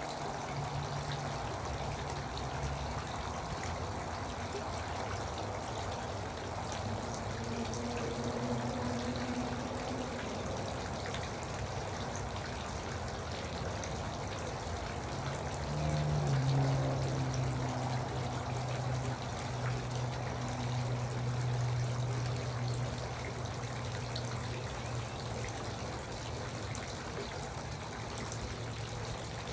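Garden water fountain trickling and splashing steadily, with a low hum underneath that grows stronger about halfway through.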